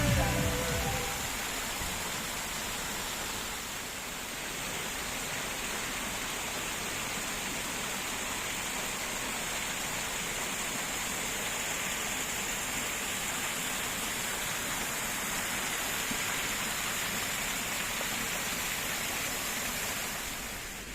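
Steady rushing of running water, even and unbroken, after background music fades out in the first second or so.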